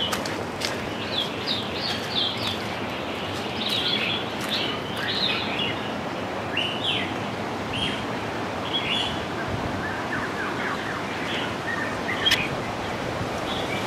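Wild birds calling: many short chirps and quick whistled notes scattered throughout, over a steady background hiss.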